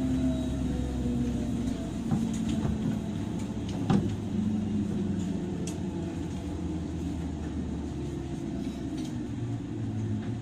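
Running sound inside a JR 103 series electric train's motor car: the rumble of wheels and traction motors, with the motor hum's pitch slowly falling and the noise easing off as the train slows. Sharp clacks come now and then from the wheels over rail joints, the loudest about four seconds in.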